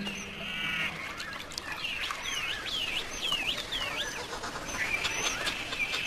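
Wild birds calling: a quick run of downward-sliding chirps about two to three seconds in, with a buzzy trill near the start and again near the end. Background music fades out in the first second.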